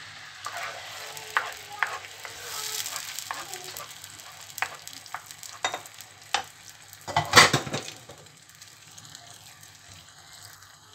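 Grated tomato sizzling in hot oil in a frying pan, stirred with a wooden spoon that clicks and scrapes against the pan, with one louder clatter about seven seconds in.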